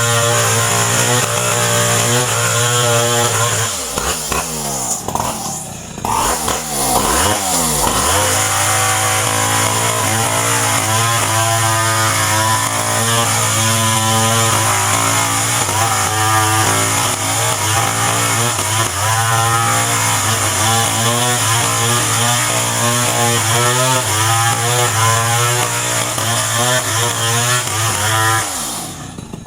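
Two-stroke chainsaw engine running at high revs. The throttle eases off and comes back up about five seconds in, then holds steady until it is released near the end.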